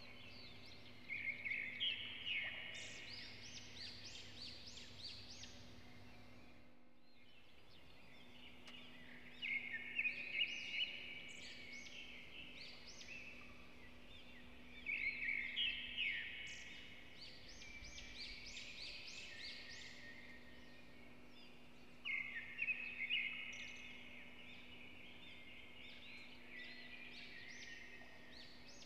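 A songbird sings four short phrases of quick, high chirping notes, each about two seconds long and repeated every six or seven seconds. A steady low hum runs underneath, and the sound briefly drops out about seven seconds in.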